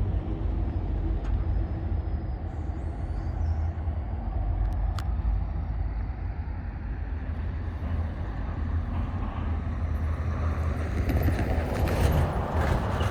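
Diesel-electric switching locomotive running with a steady low rumble. About eleven seconds in a louder hiss of air swells for a couple of seconds.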